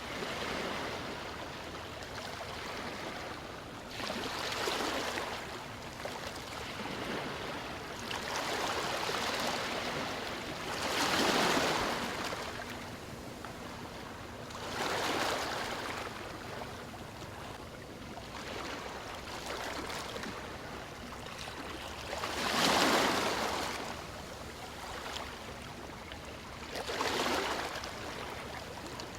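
Ocean waves breaking and washing ashore: a constant wash of surf that swells every few seconds as each wave comes in, one of the loudest surges late on.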